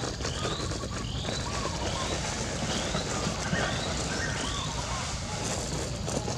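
Short rising bird calls repeating about once a second, with lower short chirps between them, over a steady low rumble.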